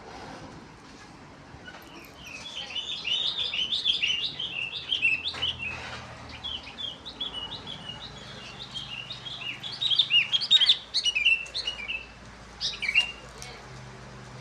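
Small birds chirping in quick, overlapping short notes that start about two seconds in and go on busily for about ten seconds, with one last short burst near the end.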